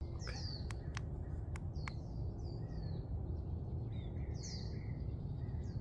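Small birds chirping, with repeated short downward-sweeping chirps. A few sharp clicks come in the first two seconds, over a steady low rumble of background noise.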